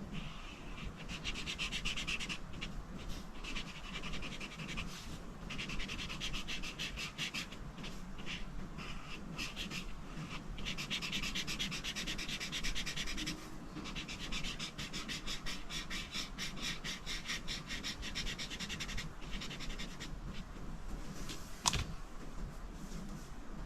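Rapid back-and-forth coloring strokes scratching on paper, in runs of a few seconds broken by short pauses. A single sharp click near the end.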